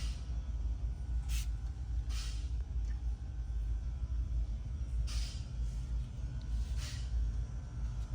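Steady low rumble of background noise inside a shop, with four brief rustles about one, two, five and seven seconds in.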